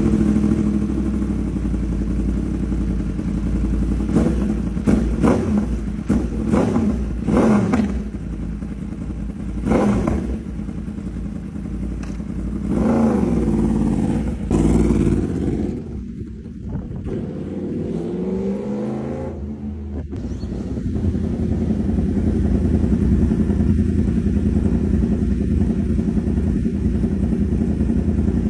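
Motorcycle engine revved several times, its pitch climbing and falling, then running steadily through the last third.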